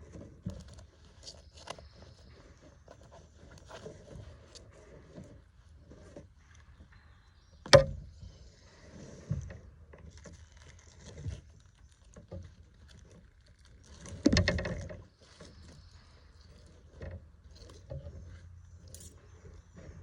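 Scattered knocks, clicks and rattles of fishing gear being handled aboard a kayak, with one sharp knock about 8 seconds in and a louder, longer clatter around 14 seconds.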